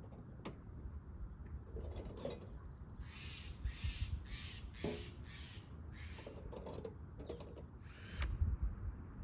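A bird outdoors giving a run of short, harsh calls, about two a second, starting about three seconds in. Sharp metallic clinks of bolts and tools being handled are scattered through it, over a low rumble of wind on the microphone.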